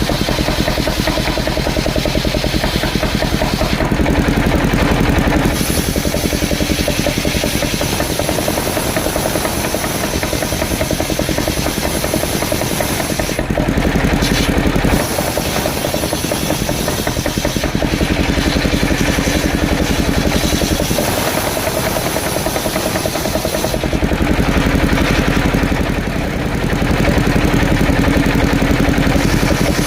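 Engine-driven mobile circular sawmill running steadily while sawing coconut-palm logs, its tone shifting several times as the load on the blade changes.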